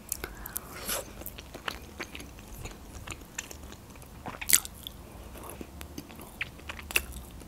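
Close-up eating sounds: chewing and biting with many small wet mouth clicks, while boiled potato is being eaten. There is a louder click about four and a half seconds in and another near the end.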